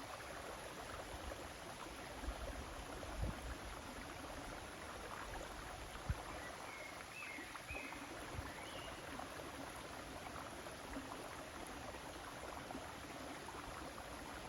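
River water flowing, a steady even rushing, with a few faint low thumps.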